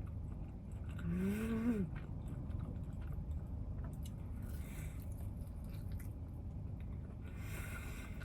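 A person chewing food, with a short closed-mouth "mmm" of enjoyment that rises and falls about a second in, and soft bursts of chewing noise twice later on.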